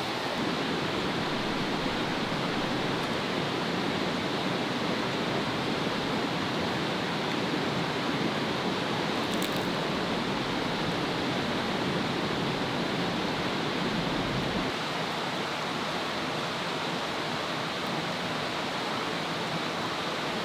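Steady rushing noise, its deeper part easing off about fifteen seconds in.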